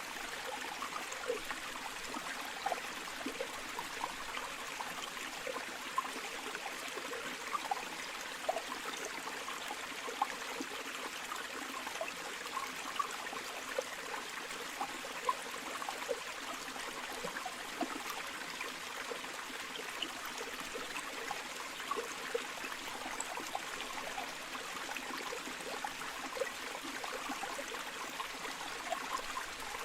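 A river or stream flowing steadily over stones, with small gurgles and splashes.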